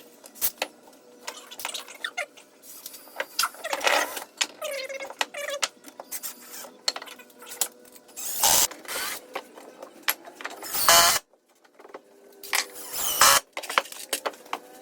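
Carpentry work on a 2x4 lumber frame: a busy run of clicks, knocks and clatter from wood and tools being handled, with three short loud bursts of noise, the last two a couple of seconds apart near the end. A faint steady hum runs underneath.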